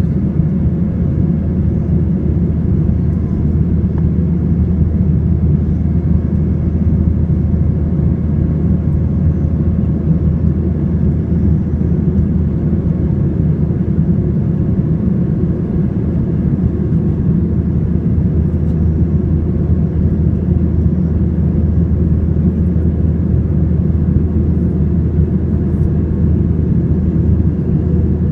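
Airbus A320 cabin noise in flight after take-off: a loud, steady low rumble of the jet engines and airflow, with faint steady hums above it and no change throughout.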